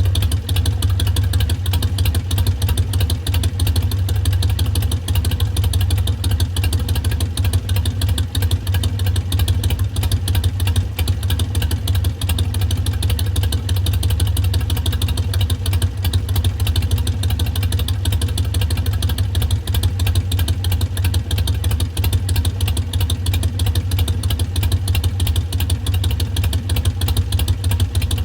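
2019 Harley-Davidson Sportster Iron 883's air-cooled 45-degree V-twin idling steadily through Vance & Hines Twin Slash mufflers, with the uneven three-beat lope of a Harley idle.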